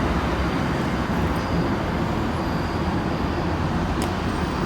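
Steady low rumble of a vehicle and road traffic.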